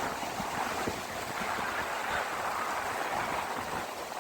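Steady rush of water and wind aboard a moving ferry boat at sea, with wind buffeting the microphone.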